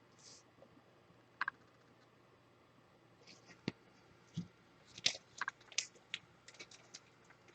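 Faint scattered clicks and rustles of trading cards and their packaging being handled, growing busier about five seconds in.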